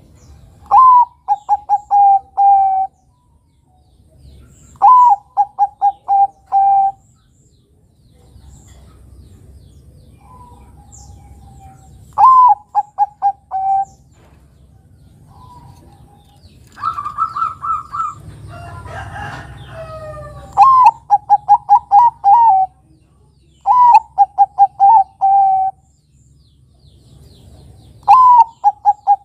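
Bangkok-strain zebra dove (perkutut) singing its cooing song: each phrase opens with a rising note followed by a quick run of five or six short coos, repeated about every four seconds. A little past the middle comes a different, higher call with a rustling noise under it.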